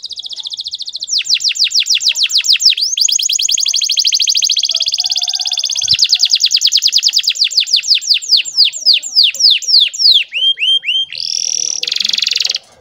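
Domestic canary singing one long, unbroken song of rapid trills, fast runs of repeated sweeping notes. Near the end the notes slow and spread out, and the song closes with a short buzzy phrase that stops sharply.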